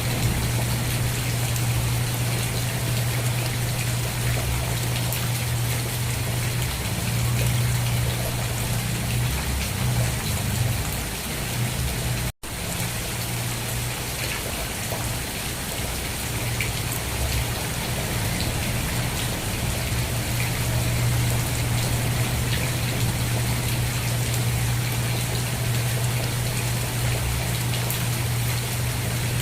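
Steady, dense rainfall with a constant low rumble beneath it. The sound cuts out for an instant about twelve seconds in, then resumes.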